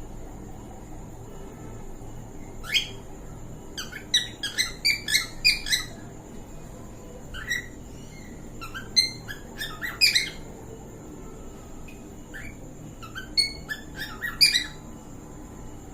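Cockatiel mating call: short, sharp chirps and whistles in quick clusters, with quieter pauses of a second or two between them.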